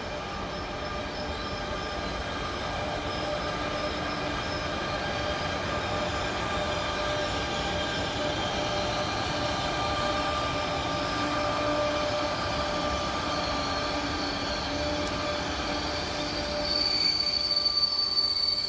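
A train moving through the station, with several steady whining and squealing tones that build slowly. Near the end a sharp high-pitched squeal comes in louder, typical of wheel or brake squeal.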